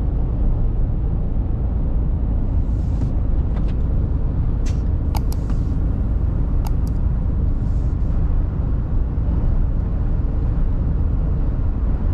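Mercedes-Benz Actros truck heard from the cab: a steady low diesel rumble mixed with road noise. Several short sharp clicks and a couple of brief hisses come between about three and eight seconds in.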